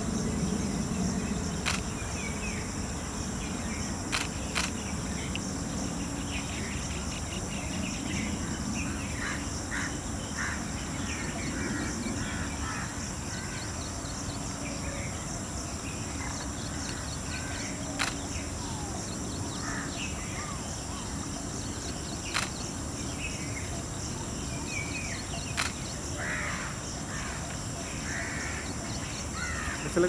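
Natural forest ambience: insects hum steadily at a high pitch, with short bird calls scattered throughout and a low rumbling background. A few sharp clicks stand out now and then.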